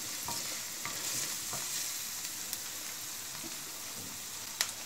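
Chopped onions and green chillies sizzling steadily in hot oil in a stainless steel pan while a wooden spatula stirs them, with a few light scrapes and clicks and one sharper click near the end.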